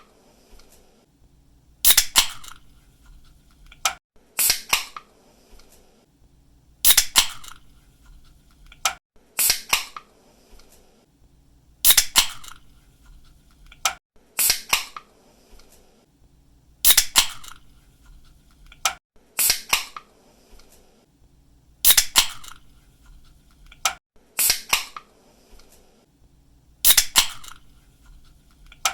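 Aluminium pull-tab drink can being cracked open again and again: each time a small click of the tab, then a sharp pop and a short fizz, about every two and a half seconds.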